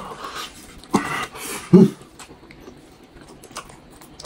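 Close-miked eating: a person biting into and chewing braised meat on the bone, with wet chewing and smacking. There is a sharp sound about a second in and a short, louder low sound just before two seconds, then quieter chewing.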